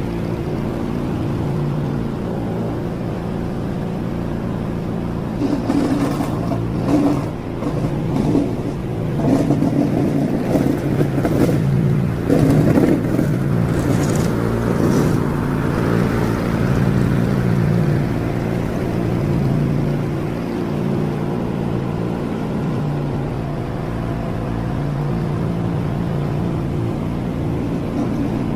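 A motorized weed-cutting machine running continuously with a steady low hum. From about five to fifteen seconds in it grows louder and uneven, with scattered sharp clicks and rattles, then settles back to a steady run.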